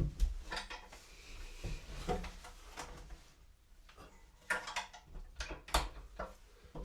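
A series of irregular clinks and knocks from objects being handled, bunched more closely about two-thirds of the way through.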